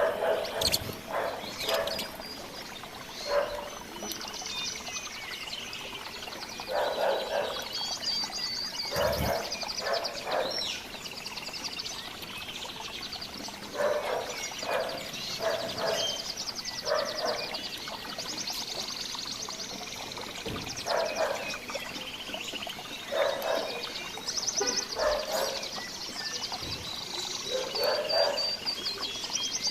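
Mixed wild birds singing and calling: buzzy high trills lasting a second or two recur every several seconds, among short, lower-pitched calls repeated every second or two.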